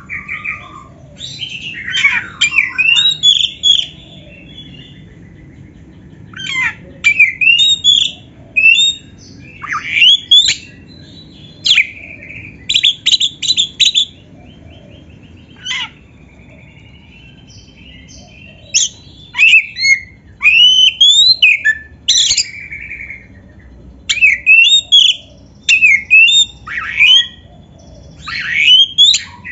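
Oriental magpie-robin (kacer) singing vigorously: bursts of loud, quickly rising and falling whistled notes mixed with fast chattering, each phrase a second or two long with short pauses between, over a faint low hum.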